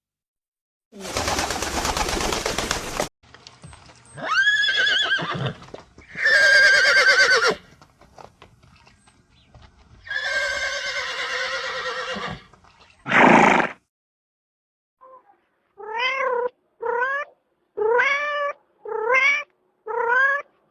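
A string of varied animal calls opening with a burst of noise, then a cat meowing five times in quick succession, about one meow a second.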